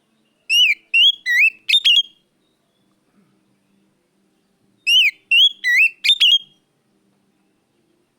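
Oriental magpie-robin (kacer) singing: two loud, clear phrases of four or five swooping whistled notes each, about four seconds apart.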